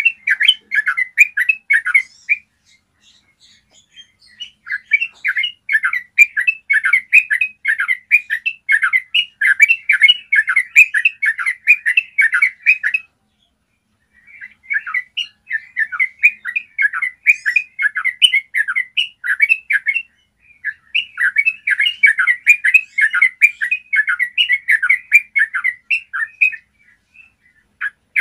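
Yellow-vented bulbul singing long runs of rapid, clear bubbling notes. The song comes in bursts broken by short pauses: about 2 s in, around 13 s, around 20 s and near the end.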